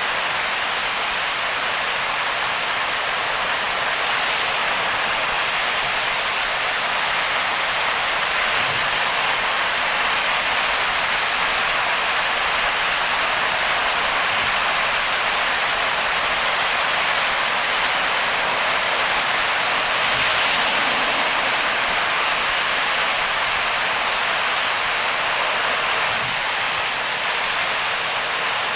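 Heavy rain on a car driving through a downpour: a dense, steady hiss with no break.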